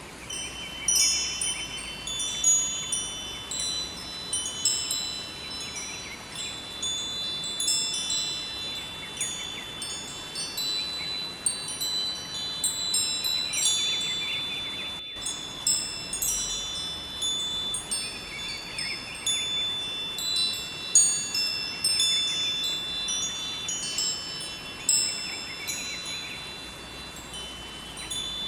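Wind chimes ringing irregularly, many high bright strikes overlapping and sustaining, over a steady rush of river water. There is a brief dropout about halfway through.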